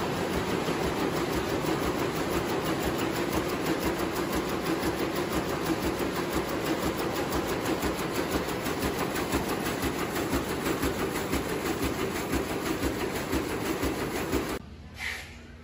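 Textile machinery in a towel factory running with a fast, even clatter. It cuts off abruptly near the end.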